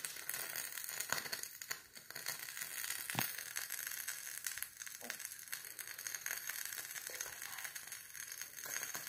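Wax-coated cotton swab held in a candle flame, crackling and sizzling with a steady stream of small pops as the wax burns off.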